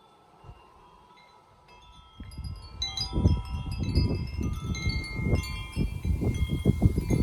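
Wind chimes ringing, many overlapping bell tones. From about two seconds in, a louder, uneven low rumbling joins them and becomes the loudest sound.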